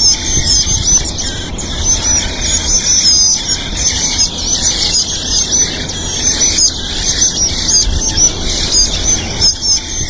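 Eurasian blackbird nestlings begging to be fed: a dense, continuous stream of high-pitched squeaking calls, over a low rumble.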